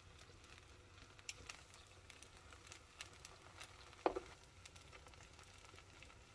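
Faint sizzle of corn tortillas heating in rendered beef fat in a frying pan, with light clicks of metal tongs and a brief louder knock about four seconds in.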